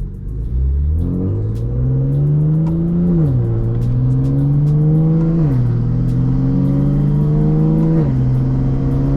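BMW S55 twin-turbo inline-six on a Valvetronic Designs equal-length exhaust, accelerating hard: the engine note climbs, then drops sharply at three quick dual-clutch upshifts, about 3, 5½ and 8 seconds in, and climbs again after each.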